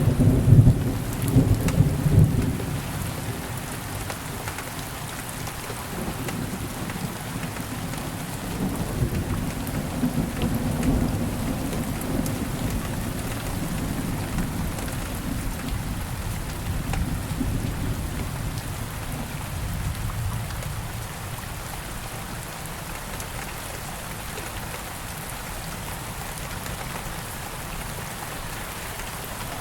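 Steady rain falling, with thunder rumbling loudly in the first couple of seconds and again more softly about ten seconds in.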